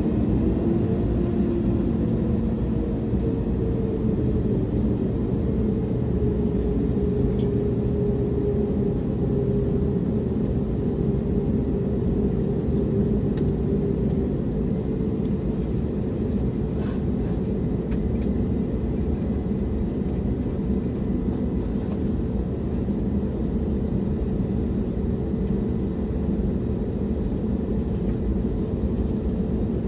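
Airbus A321neo cabin noise: a steady rumble of engines and airflow with a humming engine tone that sinks slightly in pitch over the first several seconds, then holds.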